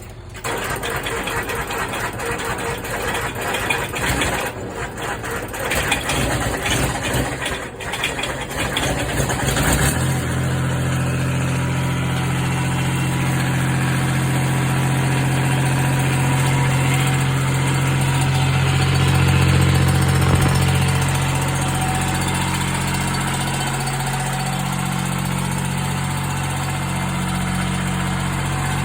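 Cold Kubota D600 three-cylinder diesel in a 782D garden tractor, cranked on the starter at below-freezing temperature after glowing the plugs. It sputters unevenly for about ten seconds, then catches and settles into a steady idle, rising briefly partway through.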